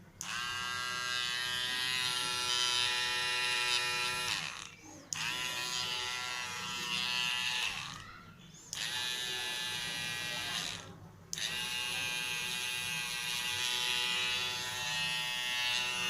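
Small electric motor of a homemade drill whining at a steady pitch. It is switched on and off four times, running a few seconds each time and dropping in pitch as it stops.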